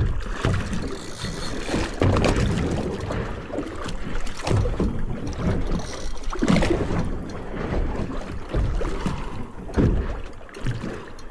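Water slapping against a small boat's hull with wind buffeting the microphone, broken by a few sharp knocks or splashes.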